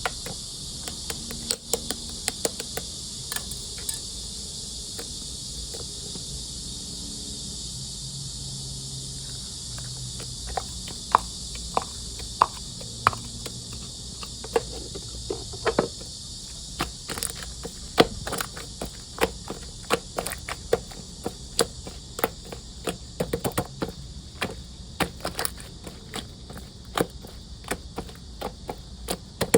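Marbled slime being pressed and stretched by hand, giving many sharp clicks and pops that come thicker in the second half, over a steady high-pitched hiss.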